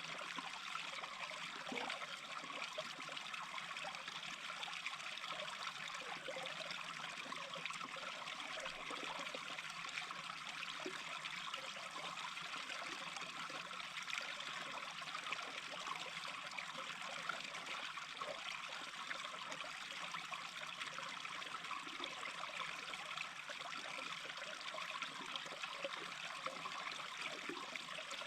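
A small stream babbling and trickling over stones: a steady, even rush of water with fine gurgling detail.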